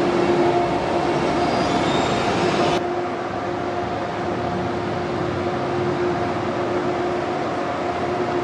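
Train at a station, running with a steady hum and two held tones over a rushing noise. The hiss in the upper range drops off abruptly about three seconds in while the hum continues.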